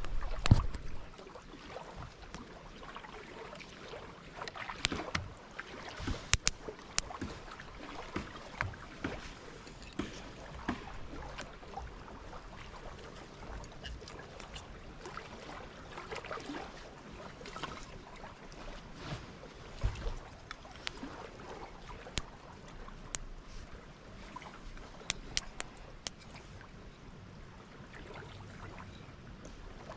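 Steady hiss of rain with irregular sharp crackles and pops from a small wood fire of shavings and sticks catching and burning.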